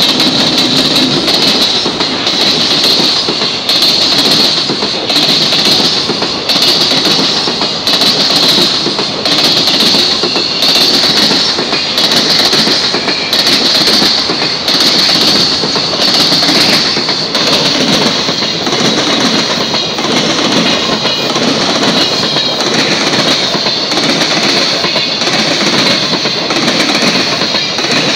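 JR Freight container train passing close and loud: an EF210 electric locomotive, then a long run of Koki container flatcars, their wheels clattering over rail joints in a regular clickety-clack about once a second, with a steady high-pitched tone above the rumble.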